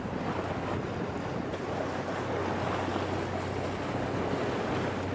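Surf on a beach: a steady rush of waves washing in, with wind rumbling on the microphone.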